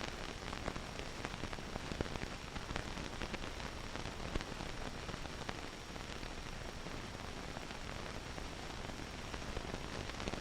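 Steady hiss with scattered faint crackles, the surface noise of an old film soundtrack.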